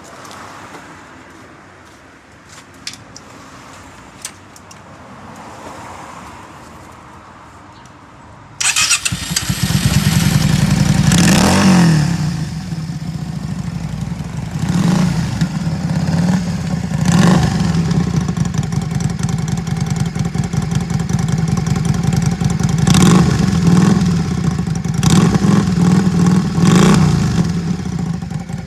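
Yamaha Drag Star 400's V-twin, breathing through a Gatling-gun style aftermarket muffler, is started about a third of the way in after a few quiet clicks, then idles loudly with about six quick throttle blips that rise and fall.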